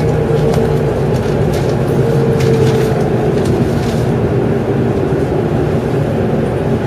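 N700 series Shinkansen heard from inside a passenger car, rolling slowly through a station: a steady rumble with a faint whine that falls slightly in pitch. A few sharp clicks come in the first two seconds.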